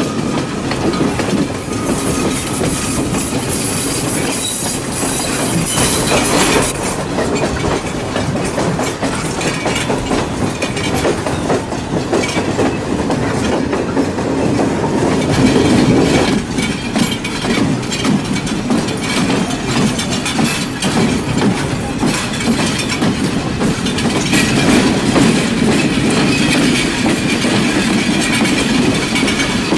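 Sri Lankan passenger train running along the track, heard from on board: a steady rumble with wheels clattering over the rail joints. A brighter, hissing stretch comes a few seconds in, and the train gets louder for a moment about halfway through.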